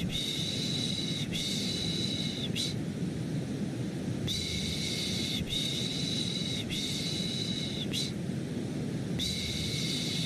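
Rhythmic 'shh' shushing for lulling a baby, in groups of three long shushes that repeat about every five seconds, over a steady low white-noise hiss.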